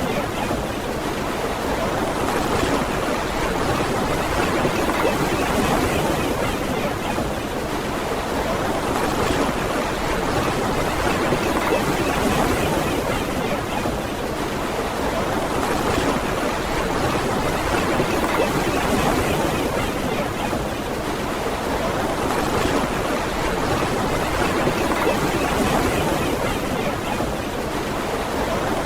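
Steady wash of ocean surf on a beach, swelling and easing gently every several seconds.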